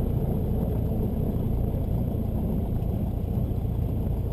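Cessna 172's engine and propeller running at low power, a steady low drone heard inside the cockpit.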